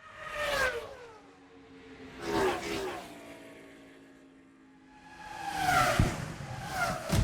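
Cars passing by at speed, each engine note sliding down in pitch as it goes past: once about half a second in, again after two seconds, then twice in quick succession near the end.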